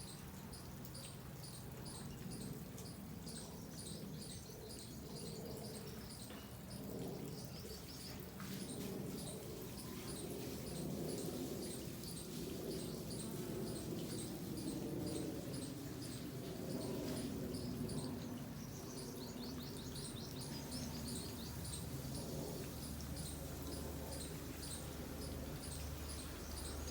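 Garden ambience with small birds chirping: a high thin chirp repeats about twice a second, joined by bursts of lower trilling chirps, over a steady background hum.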